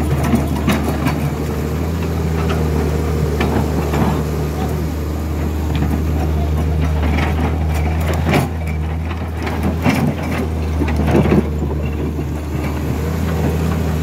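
Truck engine running steadily with a low drone, with scattered knocks and clatter.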